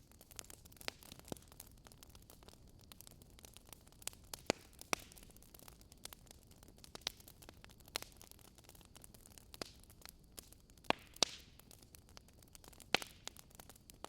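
Wood fire crackling: irregular sharp pops and snaps over a soft steady hiss, with a few louder pops in the second half.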